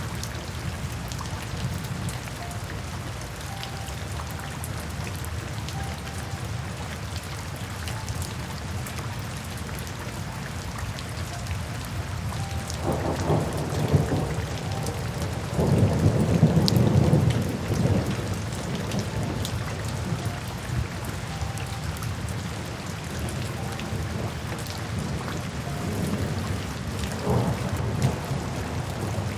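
Steady rain, with low rolling thunder swelling up about halfway through and at its loudest for a couple of seconds before fading back into the rain.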